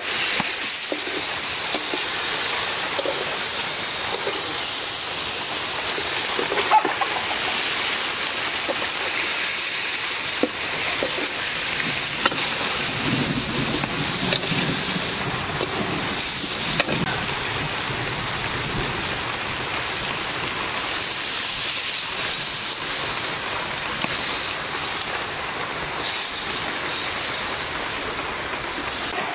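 Hilsa fish curry sizzling and bubbling in oil in a wok over a wood fire, a steady hiss with a few sharp ticks.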